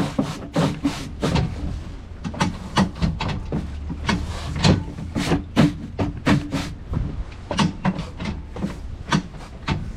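Hiking shoes being scrubbed clean: a rapid run of uneven scrubbing strokes, about two or three a second, over a steady low rumble.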